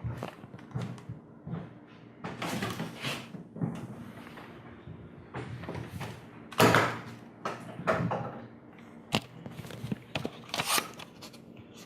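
Irregular knocks and clunks, the loudest about six and a half seconds in, with a sharp click about nine seconds in.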